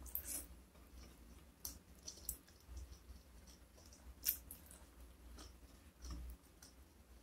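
A person chewing a mouthful of food, with scattered soft clicks and mouth noises and one sharper click about four seconds in.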